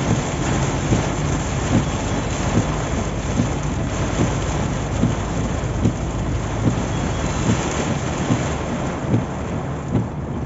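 Heavy rain falling on a car on the highway, a dense steady hiss, with a regular beat about every 0.8 seconds.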